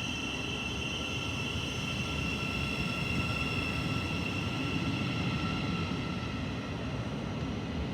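Thameslink electric multiple unit pulling out of the station: a steady high electric whine over a continuous low rumble.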